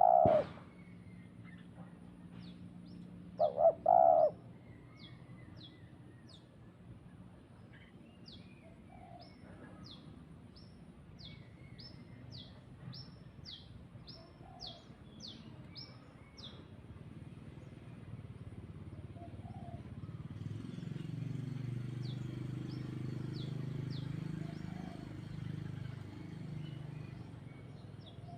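Birds calling: a steady run of short, high chirps repeated about once or twice a second, with two louder, lower pitched calls near the start. A low hum rises in the second half, then eases off.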